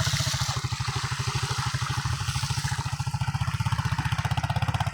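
Engine running steadily with an even, low chugging pulse of about fourteen beats a second, over a steady hiss.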